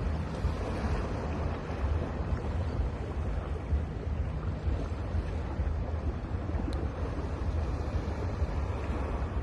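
Ocean surf washing steadily onto a beach, with wind buffeting the microphone as a low rumble.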